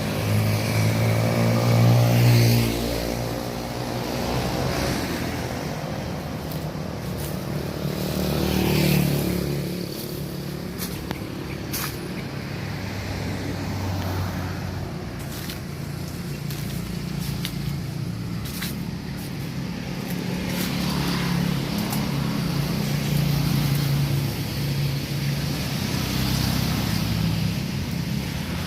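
Motor vehicles passing on a road, their engines swelling and fading: loudest about two seconds in, again near nine seconds, and once more toward the end. Scattered short clicks are heard in between.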